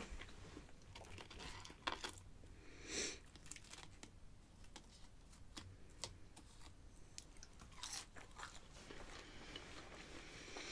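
A person chewing fried food close to the microphone, faint, with soft crunches and wet mouth clicks and a slightly louder crunch about three seconds in.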